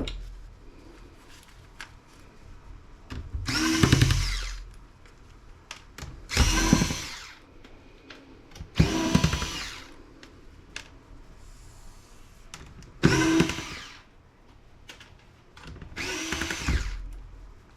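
Handheld power drill running in five short bursts of about a second each, each with a whine that rises and falls, backing screws out of a laptop screen assembly.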